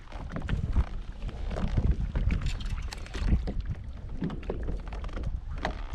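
Wind rumbling on the microphone with many irregular clicks and knocks from fighting a hooked fish on rod and reel from a kayak.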